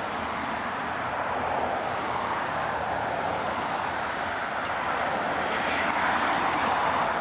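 Steady rushing vehicle noise, swelling slightly near the end.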